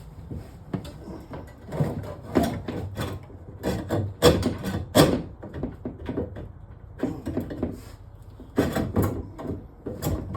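Irregular knocks, rattles and scrapes of a drain snake's cable being worked into a kitchen sink drain pipe clogged with caked grease, coming in clusters with short pauses between.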